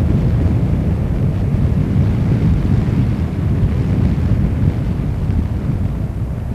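Wind buffeting the microphone over the low, steady rumble of a Boeing 747-400D's jet engines as it lands.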